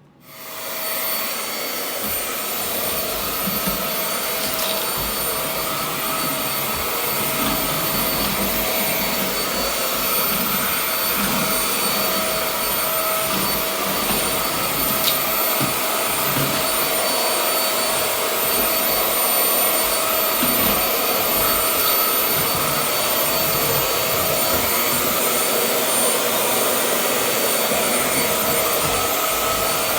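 Hoover Air vacuum cleaner switching on and spinning up over about a second, then running steadily with a constant whine while picking up drywall dust from a hard floor.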